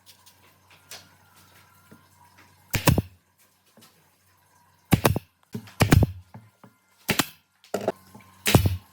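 A series of irregular knocks and clatters, about seven, over a faint steady hum.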